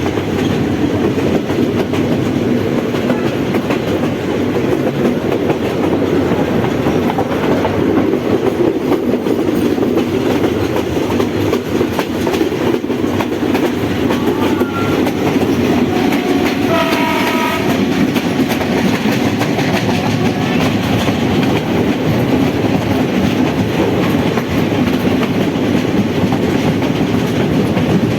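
Train running along the track: a steady rumble and clickety-clack of the carriage wheels over the rails, with a short horn sounding a little past halfway.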